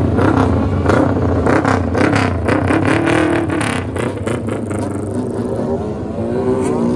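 Suzuki GS400's four-stroke parallel-twin motorcycle engine running loud through its exhaust, the throttle blipped again and again so the pitch rises and falls in quick surges for the first few seconds, then held more steadily with a wavering pitch.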